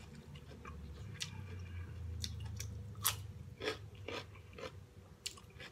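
A person chewing food, with soft, irregular crisp crunches from biting and chewing raw vegetables.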